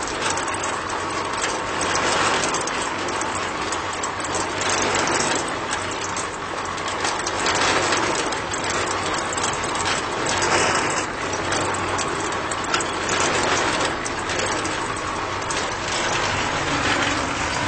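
Small motor running steadily with a fast, dense rattle, like a miniature machine at work.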